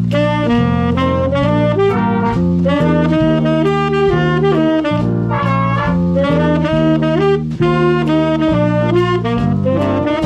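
Swing band playing, saxophones and brass carrying the melody over a steady, stepping bass line.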